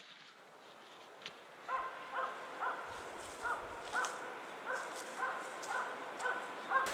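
A hunting dog barking in a steady rhythm, about two barks a second, starting a little under two seconds in.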